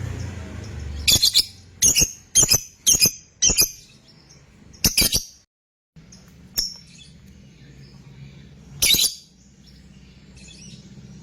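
Lovebird giving loud, shrill, clipped chirps: a quick run of about six calls in the first five seconds, then two more spaced calls. The calls are typical of a 'fighter' lovebird, used to prompt other lovebirds into long chattering.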